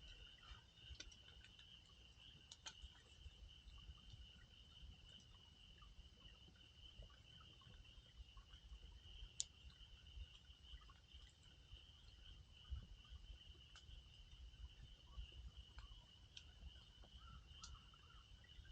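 Faint, steady high-pitched chirring of insects, with the occasional sharp crack and pop of a wood campfire, one louder pop about halfway through.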